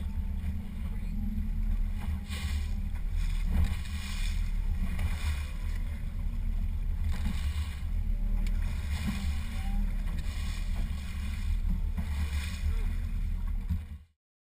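Aboard a small fishing boat on open water: a heavy, uneven low rumble of wind and boat noise, with washes of hiss recurring about every second. It cuts off suddenly near the end.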